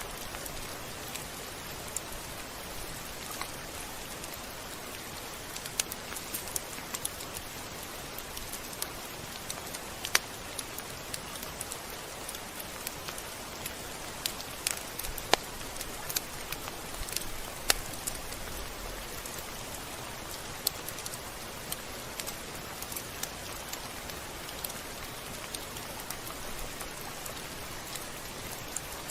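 Steady rain hiss with irregular sharp drips and ticks of drops striking a surface.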